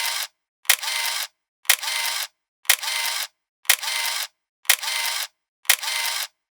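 A sharp click followed by about half a second of hiss, repeating exactly once a second with dead silence between: a looped, mechanical-sounding effect like a camera shutter.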